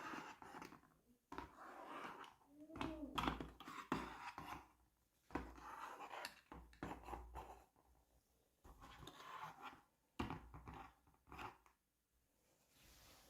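Toy packaging being handled and opened: faint rustling, scratching and clicks that come in irregular bursts with short pauses between them.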